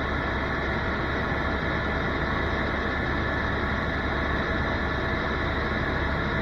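Helicopter in flight: a steady drone of engine and rotor with several constant tones over it.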